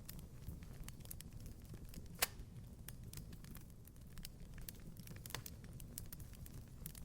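Wood fire crackling in a fireplace: irregular small pops and snaps over a low rumble of flame, with one sharper, louder pop about two seconds in and another about five seconds in.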